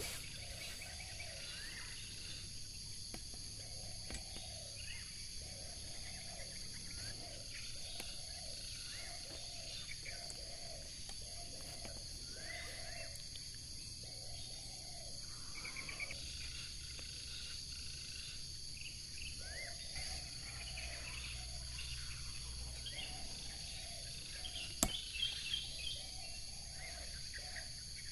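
Steady high insect drone with birds calling over it: series of repeated low, rounded notes and short rising chirps. A single sharp click comes near the end.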